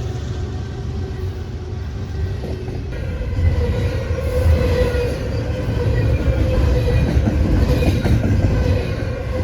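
Long freight train passing on the rails: a heavy rumble of rolling cars. A thin steady ringing from the wheels comes in about three seconds in and grows louder.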